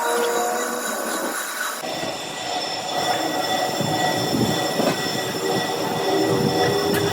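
Metal being machined in a workshop: a steady squealing of a cutting tool on metal, with several held tones, which grows fuller and a little louder about two seconds in.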